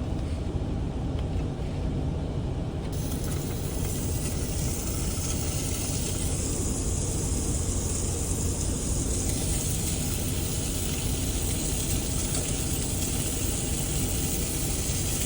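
Sausages sizzling in a hot pot: a steady frying hiss switches on about three seconds in and keeps going, over a steady low rumble.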